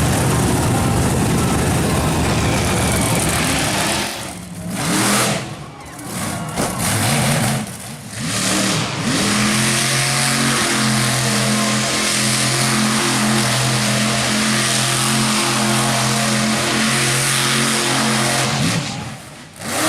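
Monster truck engine revving hard, lifting off the throttle briefly three times in the first eight seconds, then held at a steady high pitch for about ten seconds before it drops off near the end.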